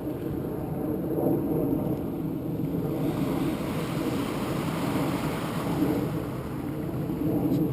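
A vehicle engine running steadily, with a rushing, wind-like noise over it that swells about halfway through.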